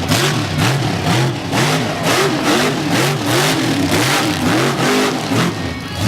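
Mega mud truck's engine revved hard up and down over and over, about twice a second, with a burst of noise at each peak.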